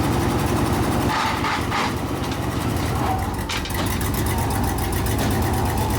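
1976 Ford F-600 dump truck's carbureted engine idling steadily. There are brief higher-pitched sounds between one and two seconds in and a short click or knock past the middle.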